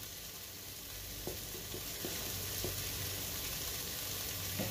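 Onion, carrot and tomato masala sizzling gently in a nonstick pan, with a few faint light ticks.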